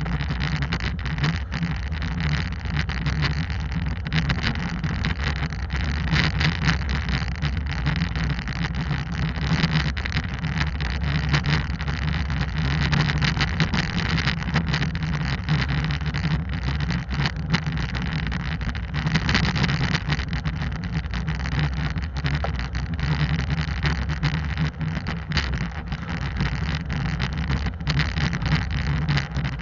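Hyundai Santa Cruz pickup driving on an unpaved trail, heard through a GoPro mounted outside on its passenger side: a steady low engine and road rumble with wind buffeting the microphone.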